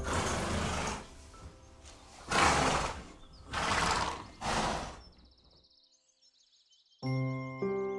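An animal's harsh, noisy calls: one in the first second, then three louder ones about a second apart. A short silence follows, and music comes in near the end.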